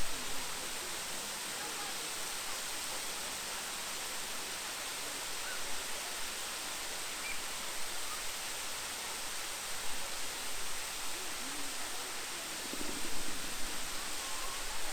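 Steady rush of falling water from the Great Waterfall, with faint voices briefly near the end.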